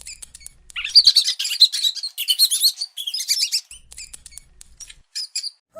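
Birds chirping: a dense run of quick, high-pitched chirps that thins out to scattered single chirps over the last two seconds.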